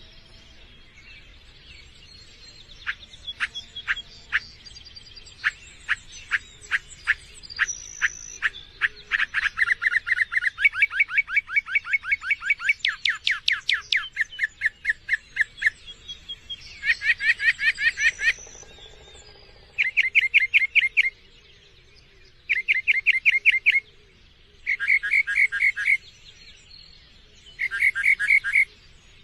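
Songbird singing: a long run of sharp notes that speeds up into a fast trill, then short rapid trilled phrases repeated about every three seconds.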